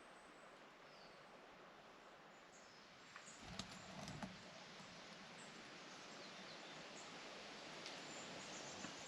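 Quiet woodland ambience with faint, high bird chirps scattered throughout. A few soft thumps and clicks come about three to four seconds in.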